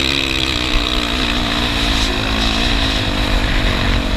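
Dirt bike engine running at a steady, slightly wavering speed, with a strong low rumble underneath.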